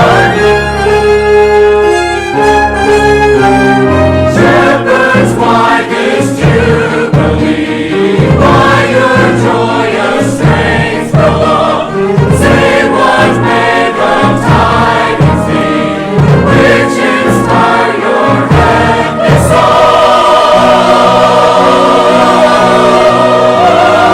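Church choir singing with orchestral accompaniment. Held chords open and close the passage, with a stretch of short, rhythmic, accented notes in the middle.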